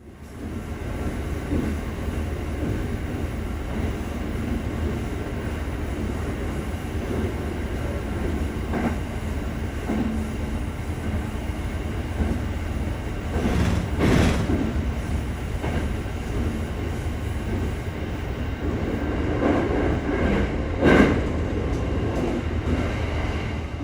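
Train running along the track: a steady low rumble with a few brief louder rattling surges along the way.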